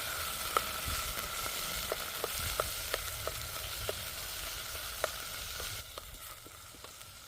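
Beef stew meat searing in olive oil in a pot over campfire coals: a steady hiss of sizzling with sharp spitting pops scattered through it. The sizzle drops to a quieter level about six seconds in.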